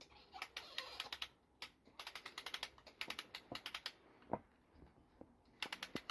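Garden parasol's crank handle being wound, its ratchet giving runs of rapid clicking, about ten clicks a second, with short pauses between the runs.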